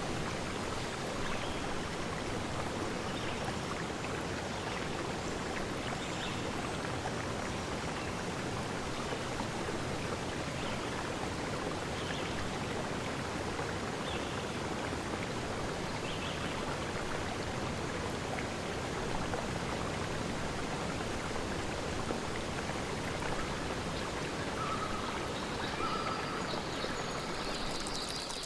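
Steady rushing of a flowing forest stream, with faint short high notes every couple of seconds and a few brief calls near the end.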